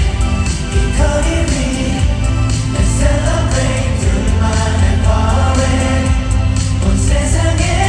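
Loud live pop music through a concert sound system: several voices singing together over a band track with a heavy bass line and steady beat.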